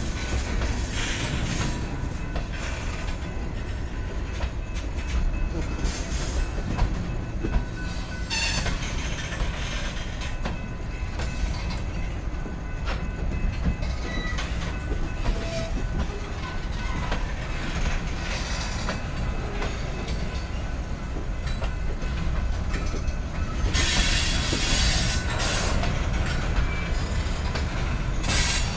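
Tank cars of a freight train rolling slowly past: a steady rumble of wheels on the rails. There are louder, noisier spells of clatter about 8 seconds in and again from about 24 to 26 seconds in.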